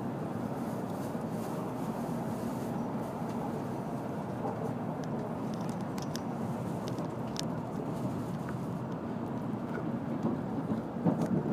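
N700-series Shinkansen running, heard from inside the passenger cabin just after leaving the platform: a steady rumble, with a few faint ticks and some louder knocks near the end.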